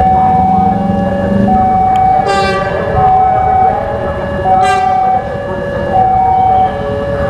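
A two-tone warning alarm alternating steadily between a low and a high note, each held for about three-quarters of a second. Two short, shrill blasts sound over it, about two and four and a half seconds in.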